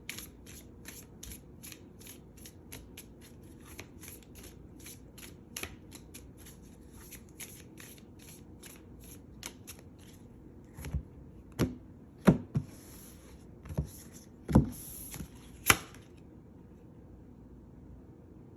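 Tarot cards being shuffled: a quick, even run of light card flicks, about five a second, for roughly ten seconds, then a few louder taps as the deck is knocked and cards are handled, stopping about sixteen seconds in.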